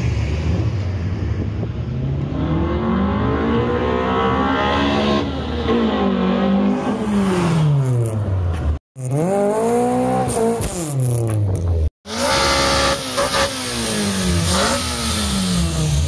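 A car engine being revved repeatedly, its pitch climbing and falling several times. The sound breaks off abruptly twice, once about two thirds of the way through and again shortly after.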